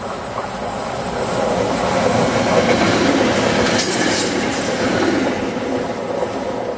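SEPTA Silverliner IV electric multiple-unit train passing close by as it pulls north out of a station stop, with wheels running on the rails. The noise builds to a peak around the middle as the cars go by, then falls away near the end.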